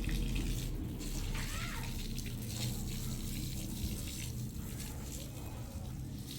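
Water running steadily with a hiss.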